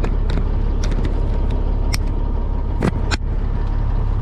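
Diesel truck engine idling with a steady low rumble, heard from inside the cab. Several sharp clicks and knocks from the camera being handled and moved, the loudest a pair about three seconds in.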